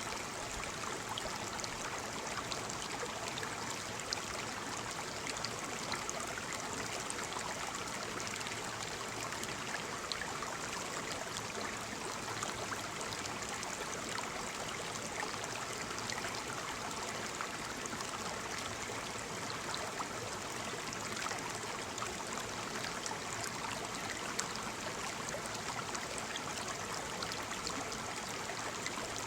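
Small waterfall splashing steadily, a continuous rush of falling water with scattered light splashes.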